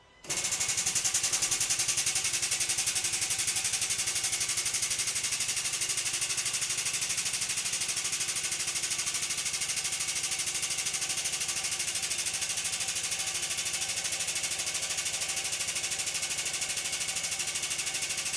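Air-over-hydraulic pump of a pneumatic motorcycle lift running on compressed air, a loud rapid pulsing hiss and chatter as it pumps the lift up. It starts suddenly and holds steady throughout.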